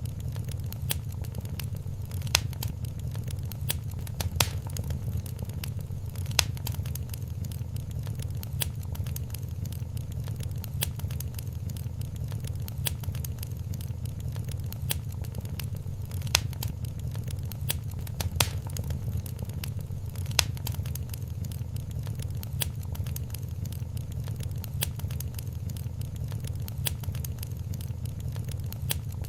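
Wood fire in a fireplace crackling steadily over a low rumble of the flames, with frequent small snaps and an occasional louder pop.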